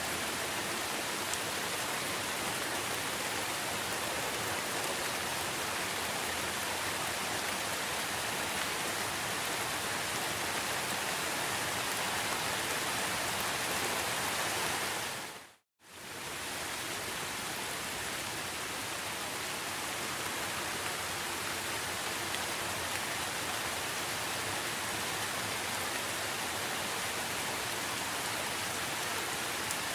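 Steady heavy rain, an even hiss with no distinct drops. A little past halfway it fades to silence for under a second and fades back in.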